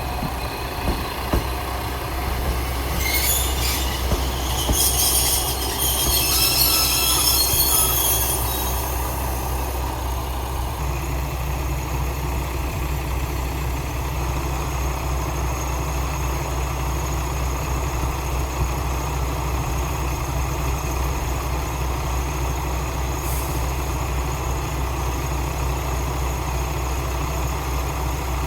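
Diesel railcar on the Yuri Kogen Railway: a high metallic squeal from its wheels for several seconds early on, over the steady low drone of its diesel engine, which then runs on evenly.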